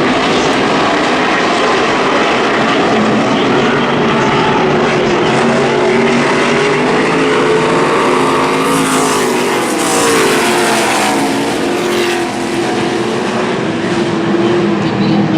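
A field of NASCAR Camping World Truck Series V8 race trucks running flat out around a dirt oval, several engines at once rising and falling in pitch as they pass. The sound swells and brightens about nine seconds in as trucks come by close, then settles back.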